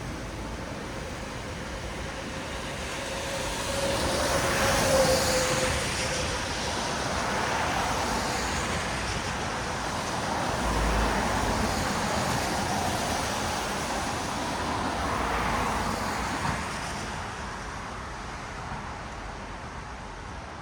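Traffic passing on a wet city road: tyres hiss on the rain-soaked asphalt, swelling as each vehicle goes by. There are about three passes, the loudest about five seconds in.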